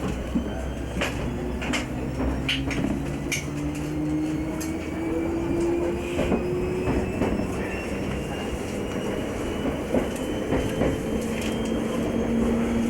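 Train running and gathering speed, its engine or motor tone rising slowly over several seconds, with scattered sharp clicks from the wheels and rails.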